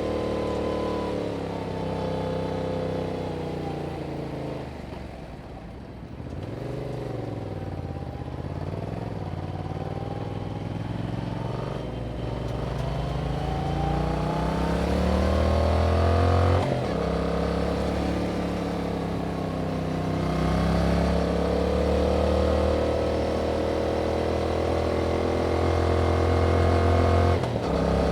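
Yamaha MT-07's 689 cc parallel-twin engine through its stock exhaust while riding. The revs fall off for the first few seconds as the bike slows, then the engine pulls and climbs again, with quick gear changes about halfway through and again near the end.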